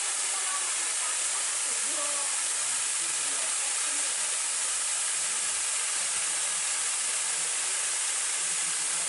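Waterfall's falling water rushing in a steady, unbroken hiss.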